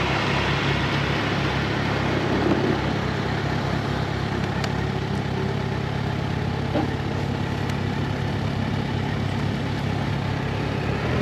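Motorcycle engine idling steadily with an even low pulse.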